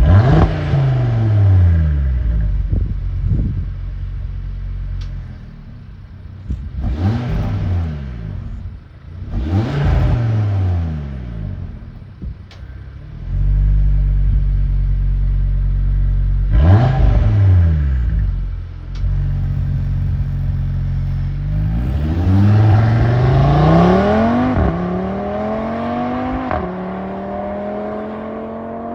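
2024 Audi RS3's turbocharged 2.5-litre five-cylinder engine through an exhaust with the front secondary cats removed and the rear resonators straight-piped. It is revved in several quick blips that rise and fall back, held at higher revs for a few seconds, with a few sharp single pops between revs. Near the end it runs a long rising pull, with the pitch stepping down once for a gear change.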